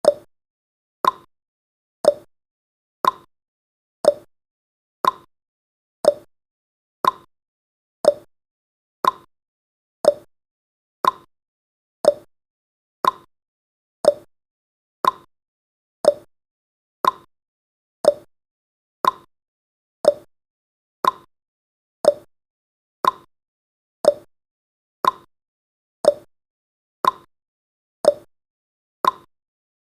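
Clock tick-tock sound effect of a countdown timer: one short click every second, alternating a lower and a higher click.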